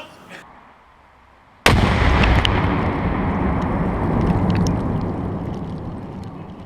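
A Tannerite charge of about five pounds, packed inside a turkey and set off by a rifle shot, blows up in one sudden loud blast about two seconds in. A long rumbling boom follows and fades slowly over several seconds.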